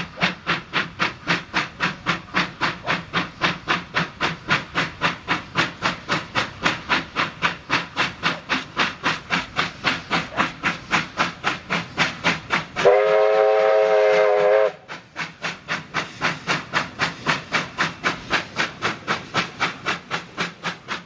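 Steam locomotive working hard with rapid, even exhaust beats, about three to four a second. About two-thirds of the way in, its steam whistle sounds loudly for about two seconds; then the beats carry on.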